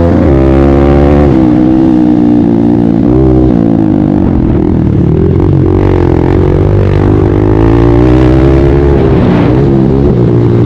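Kawasaki KLX140 pit bike's single-cylinder four-stroke engine under racing throttle, loud, its pitch rising and falling again and again as the throttle opens and closes.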